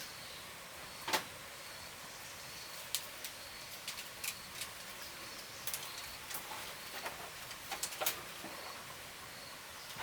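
Scattered light clicks and taps, about a dozen at irregular intervals, over a faint steady background hiss.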